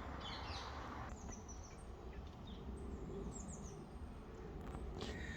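Songbirds chirping outdoors: scattered short, high chirps, several of them sliding downward, over a faint steady background hiss.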